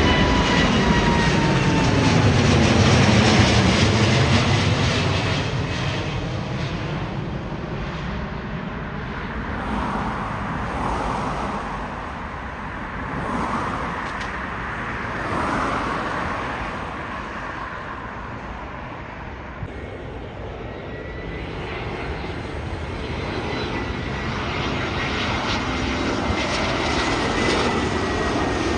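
Jet airliner passing close by, its engine whine dropping in pitch as it goes past, loudest about three seconds in, then fading away. Near the end the whine of another jet builds as it approaches.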